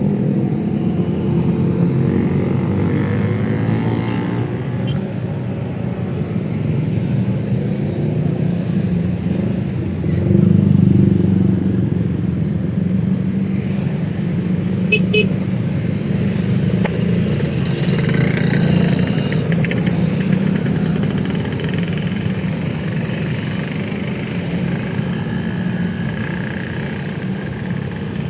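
City street traffic: cars and motorcycles running past in a steady low rumble, with one vehicle passing louder about ten seconds in and a brief hiss a little over halfway through.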